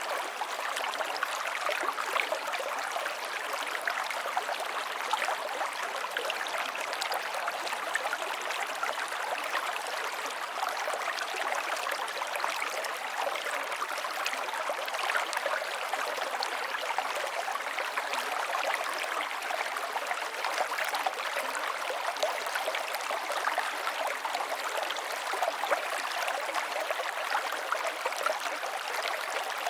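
A flowing river running steadily over rocks: an even rushing wash flecked with small splashes and burbles.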